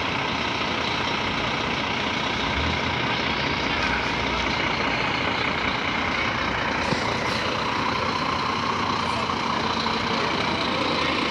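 Scania truck running steadily, a constant, unbroken engine and road noise.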